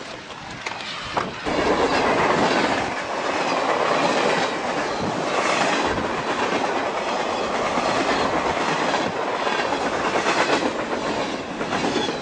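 A train running on the rails close by, a steady loud rushing noise with a faint clickety-clack of wheels, coming in sharply about a second in.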